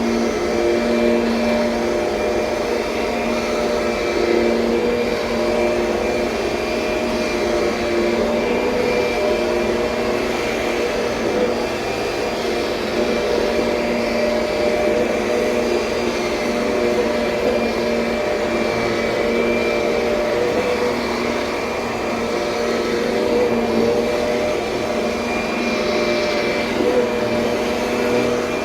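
2007 Kirby Sentria upright vacuum cleaner running steadily, a continuous motor-and-fan whine with a few steady tones held throughout.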